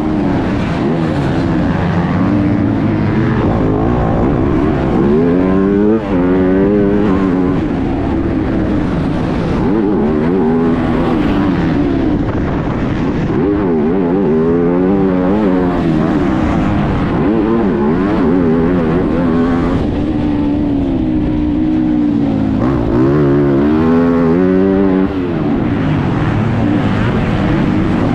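MX2 motocross bike engine heard close up from the rider's onboard camera, revving up and down repeatedly as the rider opens and shuts the throttle and shifts gears, with a brief drop about six seconds in and again near the end.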